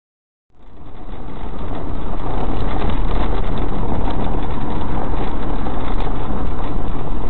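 Steady engine and road noise of a moving car, picked up by a dashcam, fading in about half a second in after a moment of silence.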